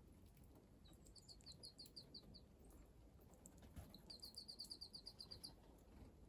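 A small wild bird calling: two quick series of high, evenly repeated notes, about a second and a half apart, the second series longer than the first. The calls are faint.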